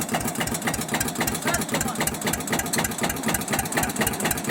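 Tractor engine running at a steady speed, its firing strokes making an even, rapid beat.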